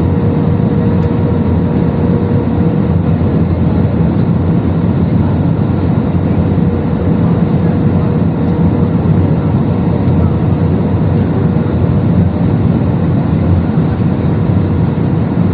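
Steady cabin noise of a jet airliner in flight, engines and rushing air, with a steady hum and a low drone.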